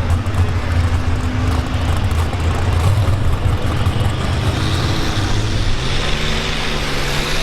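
International Harvester pulling tractor engine running loud and hard. About six seconds in, its sound shifts to a steadier, higher-pitched note.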